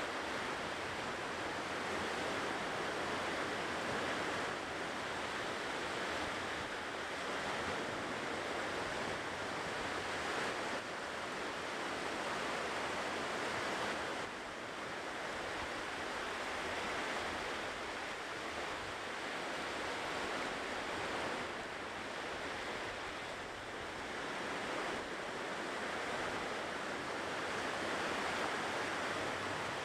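Ocean surf washing onto the shore: a continuous rush of breaking waves that swells and eases gently.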